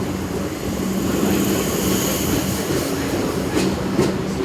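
Electric suburban train running, with a steady low hum and a faint high-pitched whine that swells and fades in the middle. A couple of short knocks come near the end.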